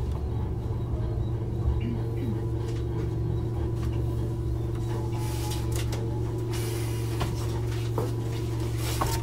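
Steady low electrical hum of a Hankyu 8000 series train's onboard equipment while it stands at the platform, with scattered small knocks and a brief hiss about five seconds in.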